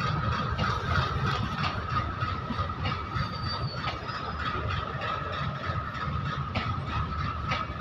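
Hopper wagons of a coal goods train rolling past: a steady rumble, wheels clicking irregularly over rail joints, and a thin high squeal held steady throughout.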